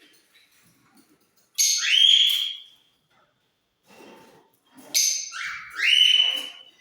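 A bird giving two loud, harsh calls, each a rasping onset that slides up into a held shrill note, about three seconds apart.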